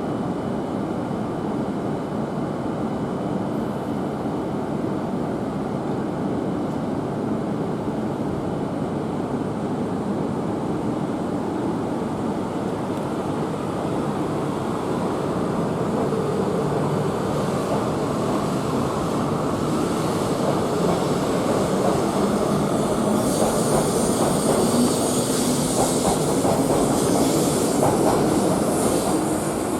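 Akita Shinkansen E6-series train pulling out along the platform, a steady rumble of running gear and wheels on rail that grows louder through the second half. Near the end a high wheel squeal and hiss join in.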